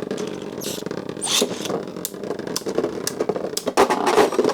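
Continuous rasping of hard plastic Beyblade gear, with rapid irregular clicks throughout.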